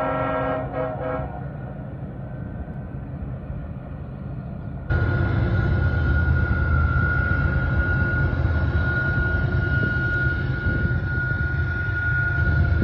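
A diesel locomotive horn chord trails off about a second in, leaving the low rumble of a distant freight train. About five seconds in the sound jumps to the much louder, steady rumble of Union Pacific diesel locomotives pulling a freight train up close, with a steady high whine held over it.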